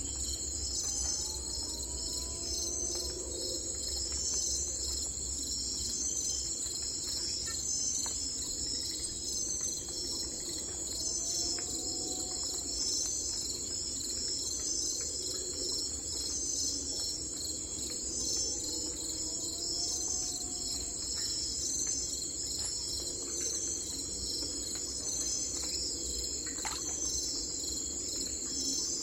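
Crickets chirping in a steady, dense chorus. A faint rising-then-falling call recurs about every eight seconds beneath it.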